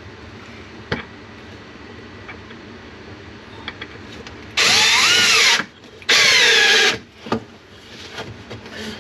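Power drill driving a screw into a 2x4 support, in two runs of about a second each, the motor whine rising and then falling in pitch on each run. A few light knocks come before and after.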